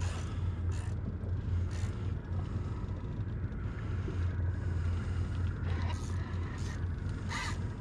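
Boat engine idling with a steady low rumble, joined by a few brief sharp knocks.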